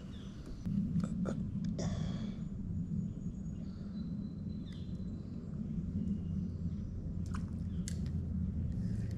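Low rubbing and rustling handling noise on a chest-mounted camera, with a few sharp clicks about a second in and again near the end.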